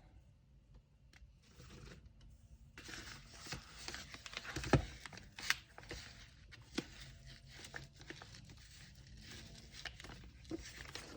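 Kraft paper crinkling and rustling as an order is wrapped, with scattered taps and knocks. It is quiet at first, the rustling starts about three seconds in, and a sharper knock comes about five seconds in.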